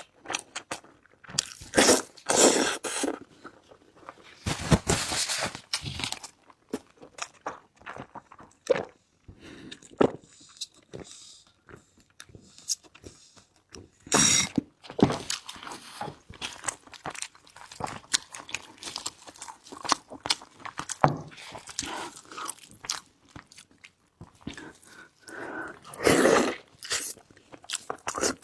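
A person eating close to the microphone: repeated crunching, biting and chewing with many small wet clicks, and a few louder, longer bouts of crunching or slurping.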